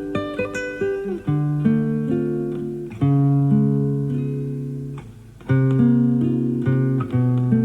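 Classical guitar played live: a run of quick plucked notes, then full chords struck about three seconds in and again about five and a half seconds in, each left to ring and fade. The sound comes from an FM radio broadcast recorded onto cassette tape.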